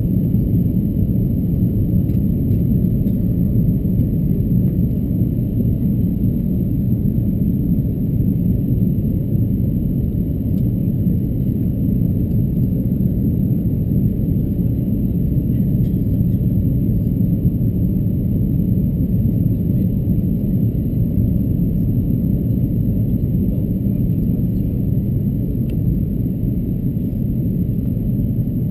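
Steady low rumble of Airbus A330-223 cabin noise, engines and airflow heard from inside the cabin, with a thin steady high whine above it.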